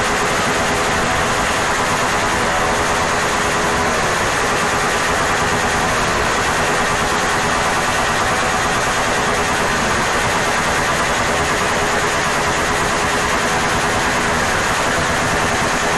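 Honda TMX 155 motorcycle engine running loud and steady through its exhaust, held without a break.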